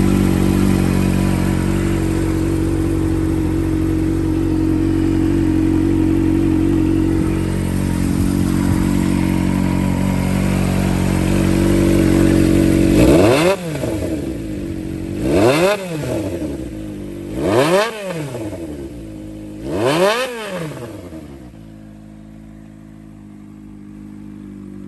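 Honda CBR400F's air-cooled four-cylinder four-stroke engine running steadily, then blipped four times about two seconds apart, each rev rising and falling quickly, before settling back to a quieter idle. The seller calls the engine in good condition.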